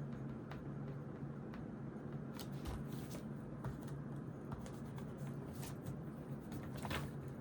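Pencil and pen scratching on notebook paper, with light paper handling, in short irregular strokes over a steady low hum.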